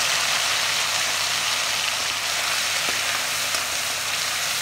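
Chopped tomatoes sizzling in hot mustard oil in a kadhai: a steady, loud frying hiss that eases slightly as the tomatoes settle.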